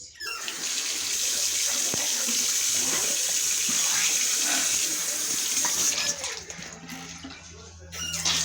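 Water running steadily, like a tap or shower. It starts about half a second in and dies away about six to seven seconds in.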